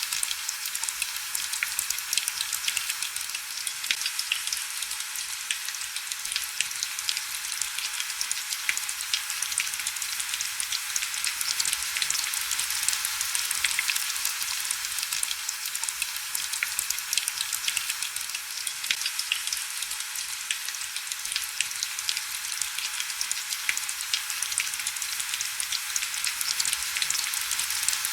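Steady heavy rain: an even hiss made of a dense patter of fine drop crackles, high-pitched and thin with almost no low rumble, unchanging throughout.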